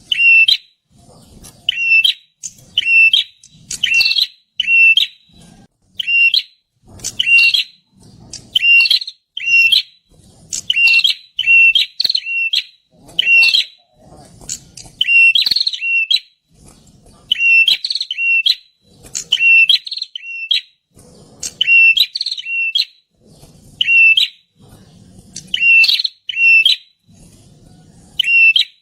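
Prinia (perenjak) calling loudly: a rapid string of short, sharp chirps, about one to two a second, each a bright note with a quick higher flick, in runs broken by brief pauses.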